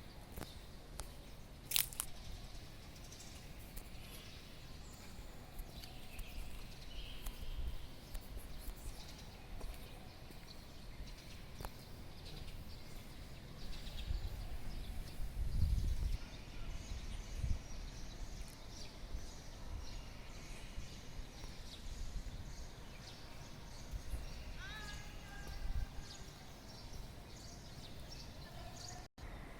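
Scattered bird chirps and calls outdoors, with a run of short falling calls near the end. Low rumbles come and go, loudest about halfway through, and there is one sharp click about two seconds in.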